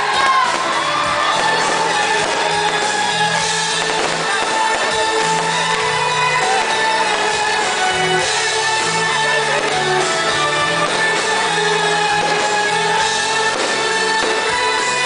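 Live band playing Greek pop music, with held notes and a stepping bass line under a sung vocal.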